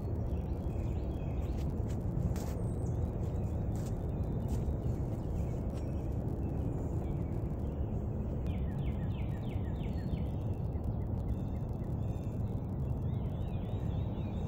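Wild birds singing in woodland: repeated short chirps and quick descending note series, busiest about eight to ten seconds in and again near the end, over a steady low rumble.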